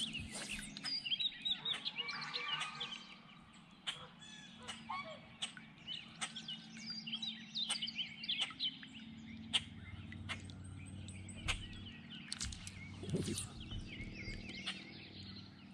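Small birds chirping and singing, with scattered sharp clicks and taps throughout.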